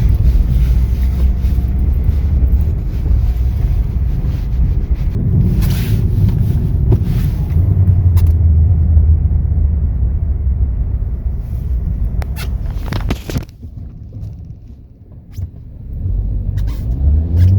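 VW Jetta's 2.0 four-cylinder engine and tyres giving a steady low rumble while driving on a snowy road, with a few short knocks. The rumble drops away about thirteen seconds in, then the engine picks back up with a rising note near the end.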